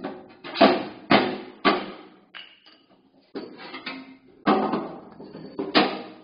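Hammer blows on a steel ammo can, about eight strikes at an uneven pace, each leaving a short metallic ring.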